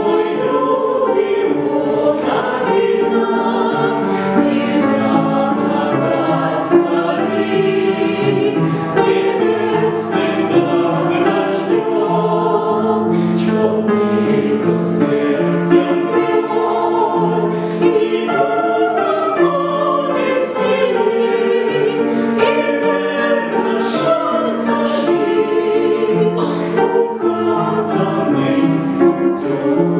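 A choir singing, several voices holding chords that move from one to the next every second or so.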